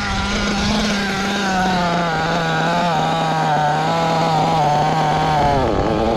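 O.S. Speed 21 XZ-B two-stroke nitro engine of a Mugen MBX8R 1/8-scale RC buggy running at high revs, its pitch wavering with the throttle. Near the end the pitch dips sharply as the throttle comes off, then it picks up again.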